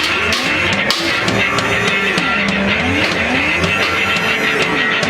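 Loud band music from a live set: a tone glides up and down repeatedly over drums and cymbals.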